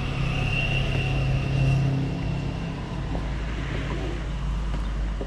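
Street traffic and road noise: a steady low vehicle rumble, with a faint high whine over the first two seconds.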